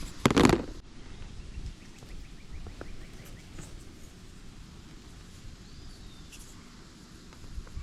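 A short, loud thump of handling about half a second in, then a low steady outdoor background with a few faint bird chirps.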